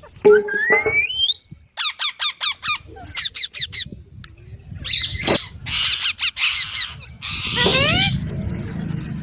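Pet green parrot calling: a rising call, then quick runs of short sharp chirps, then harsher screechy squawks in the second half.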